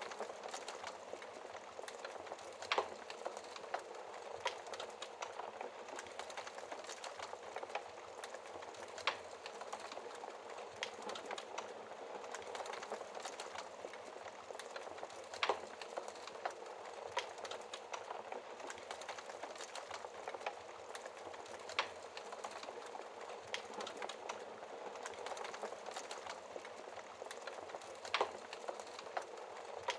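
Wood fire burning in a fireplace: a steady soft hiss with irregular sharp crackles and pops, a few louder ones scattered through.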